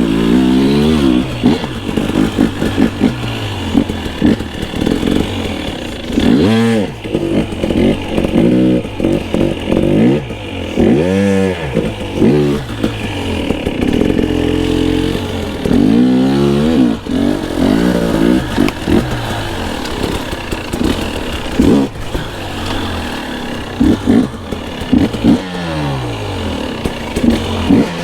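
Two-stroke dirt bike engine being ridden hard on a motocross track. The revs rise and fall over and over as the throttle is opened and shut and the gears change, with a low, chopping exhaust note.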